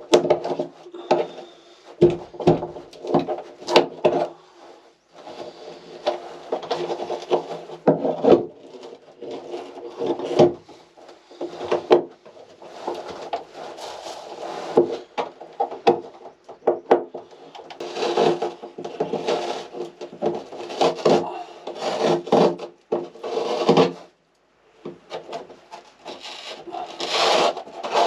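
Wood, likely the MDF interior panelling, being cut and scraped in repeated bursts of a second or more, with sharp knocks between the bursts.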